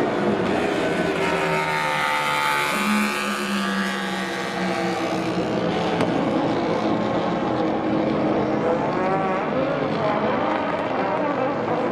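High-revving racing engine running hard, its pitch climbing and falling as it accelerates and shifts.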